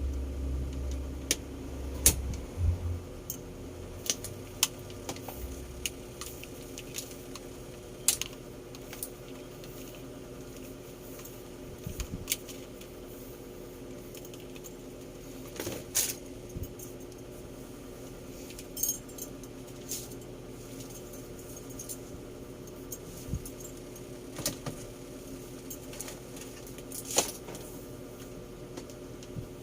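Scattered clicks and light metallic clinks of small hard objects being handled, one every second or two, over a faint steady hum; a low rumble runs under the first few seconds.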